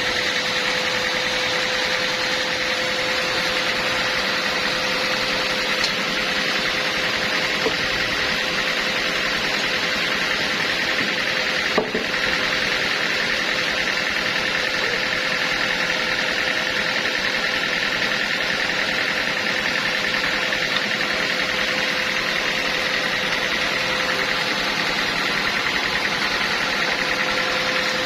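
Portable sawmill running steadily, a constant mechanical drone with a steady whine over it. A single brief click about twelve seconds in.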